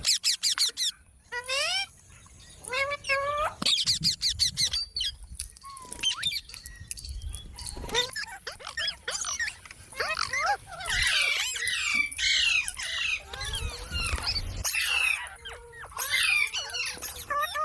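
Pet green parakeet chattering and calling: a rapid run of sweeping whistles, chirps and squawks with short pauses between bouts.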